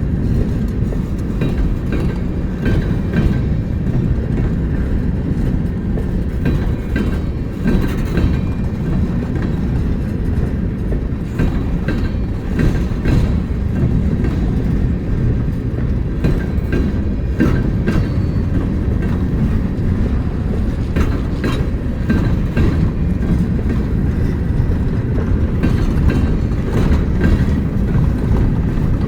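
A train rolling past: a steady low rumble of wheels on rail, with irregular clicks and clacks as the wheels cross rail joints.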